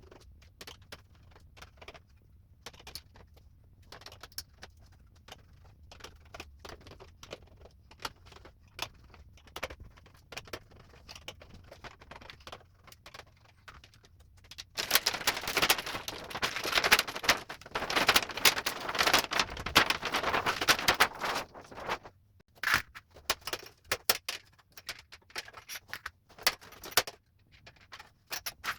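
Scattered clicks and rattles of small hard objects being handled, with a louder, dense stretch of clattering and scraping from about 15 to 22 seconds in.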